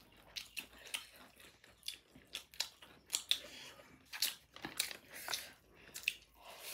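Close-up chewing of buffalo meat and biryani: irregular wet smacks and crunchy clicks from the mouth, several times a second.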